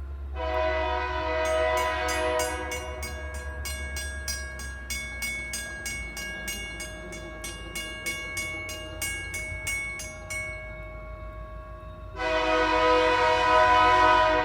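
Diesel locomotive horn sounding a chord as the train approaches a grade crossing. The crossing's Western Cullen Hayes mechanical bell rings in steady, even strokes for several seconds in the middle. A louder horn blast starts near the end over a low rumble.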